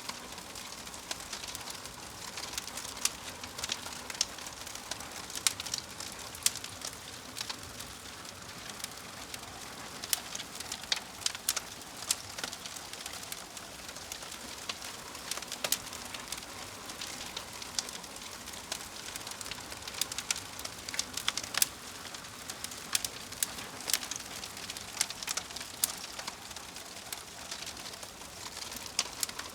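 Wood fire crackling: frequent sharp, irregular snaps and pops over a steady soft hiss.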